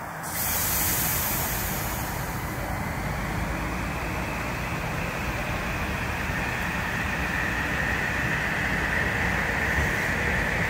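Metro-North M8 electric multiple-unit train rolling past on the far track: a steady rumble of wheels on rail. A hiss rises just after the start, and a higher whine builds over the second half.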